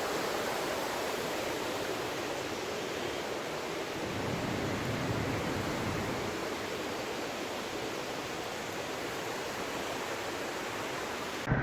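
Steady, even rush of water from a mountain waterfall.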